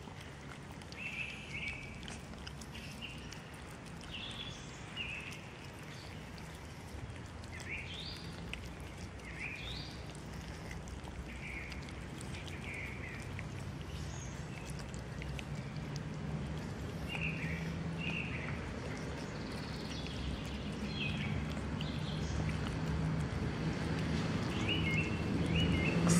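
Small birds chirping in short, scattered calls over steady outdoor background noise, with a low hum that grows louder toward the end.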